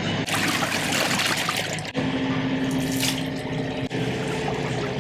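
Water rushing and splashing into a portable washing machine as it fills and washes, with a steady motor hum underneath. The hum gets stronger about two seconds in, and the sound breaks off abruptly twice where short clips are joined.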